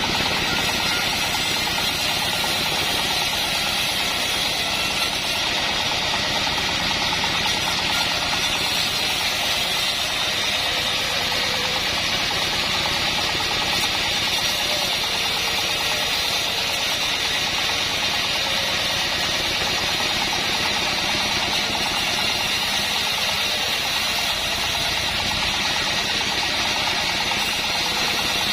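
Home-built band sawmill running steadily, a continuous loud machine noise with no pauses or changes.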